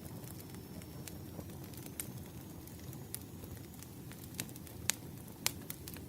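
Firewood burning: a steady low rumble of flames with scattered sharp crackles and pops, the loudest two coming near the end.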